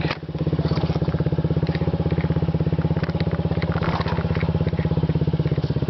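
Honda Ruckus 50cc four-stroke single-cylinder engine running through a Yoshimura TRC aftermarket exhaust, with a steady, even, rapid exhaust pulse. The sound dips briefly just after the start.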